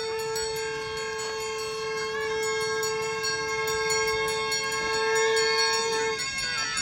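A wind horn holds one long steady note for about six seconds while higher notes shift above it, then it stops near the end; this is typical of the horns played at Tamang funeral rites.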